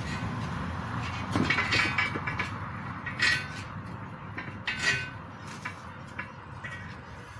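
Scattered light clinks and knocks of hard objects being handled, a few of them ringing briefly, over a low steady hum that fades away.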